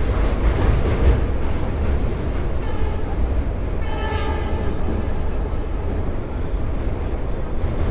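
Passenger train running with a steady heavy rumble, and a train horn sounding for about two seconds near the middle, loudest just before it stops.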